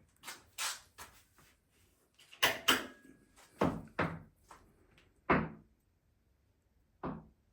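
A string of sharp, irregular knocks and clatters of hard parts being handled and set down while working on a Flymo Hover Vac 250 electric lawnmower; the loudest two come about two and a half seconds in.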